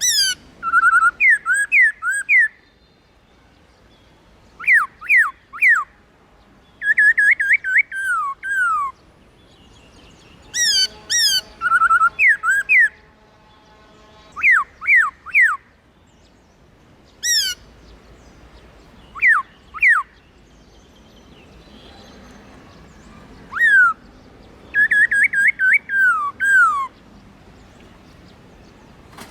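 Black-throated laughingthrush singing: loud whistled phrases of quick down-slurred notes, mixed with sharp high notes, delivered in bursts a second or few apart.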